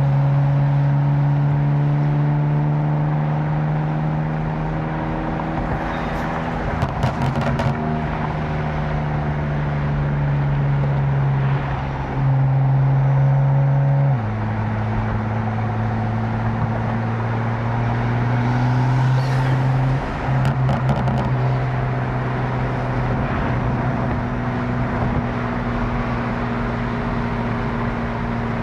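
Tuned BMW M4 twin-turbo straight-six cruising under light load with a steady engine hum. It drops to a lower steady pitch about halfway through. Two short clusters of sharp exhaust crackles come a few seconds in and again about two-thirds of the way through.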